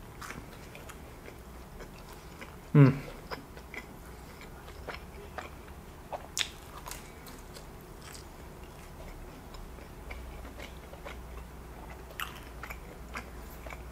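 Close-miked chewing of a slice of stuffed-crust pepperoni pizza, with soft wet mouth clicks and smacks scattered throughout. A brief hum of the voice, falling in pitch, comes about three seconds in.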